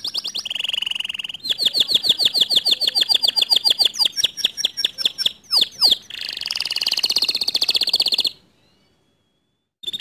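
Domestic canary singing: fast trills and rolling repeated notes, with a few quick downward-swooping whistles in the middle. The song cuts off abruptly about eight seconds in.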